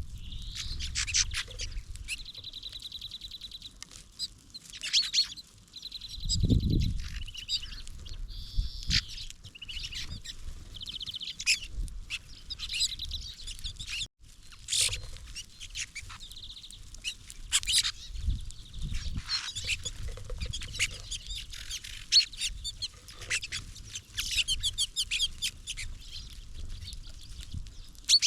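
Small songbirds chirping and calling, with several rapid trills of quick repeated notes at one pitch. A low thump comes about six and a half seconds in.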